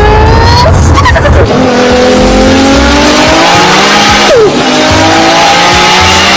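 Car engine note accelerating up through the gears: the pitch climbs, drops sharply at a gear change about a second and a half in and again past the middle, and climbs again each time.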